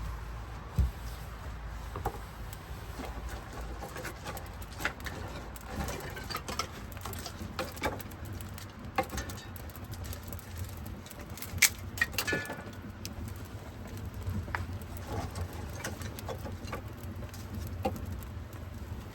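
Irregular light clicks, taps and small knocks, scattered unevenly, over a steady low rumble.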